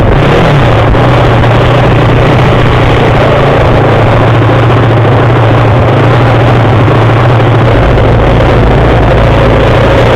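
Pitbike engines running loud and steady at close range, with one constant engine note under a rough noisy wash; a deeper rumble joins near the end.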